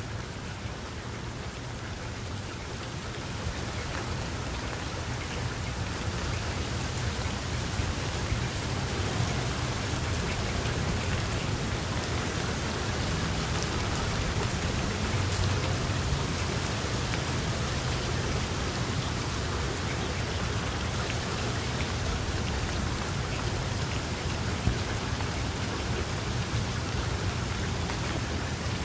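Steady rain falling and pattering on surfaces, growing a little louder over the first few seconds, with a low rumble underneath throughout.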